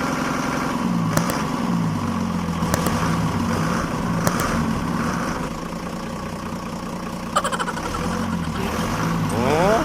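Vehicle engine running and revving up and down, with a few sharp clicks along the way.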